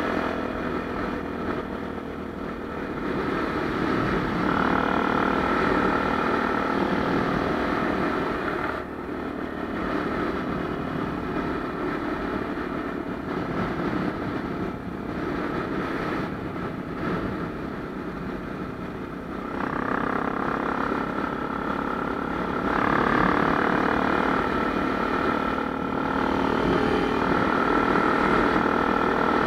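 Honda Tornado 250's single-cylinder four-stroke engine running without a break, its level rising and falling several times as the throttle changes.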